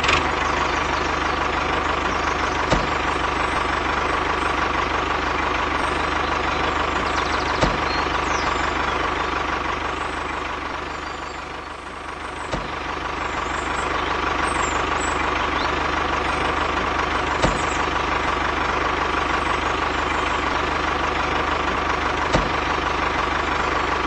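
Tractor diesel engine running steadily at a low, even rate, with a short dip in level around the middle and a faint click about every five seconds.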